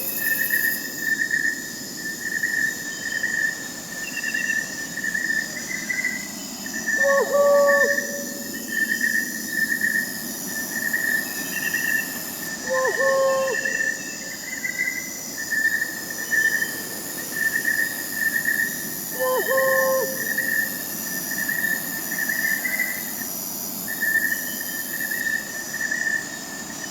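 Crickets chirping in a steady, pulsing chorus, with fainter higher insect trills coming and going. A short, low owl hoot repeats about every six seconds over it.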